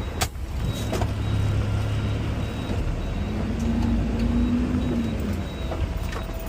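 Mack LR Electric garbage truck running: a steady low rumble, with a pitched hum from about three seconds in that rises and falls away again after two seconds, and a couple of sharp clicks near the start.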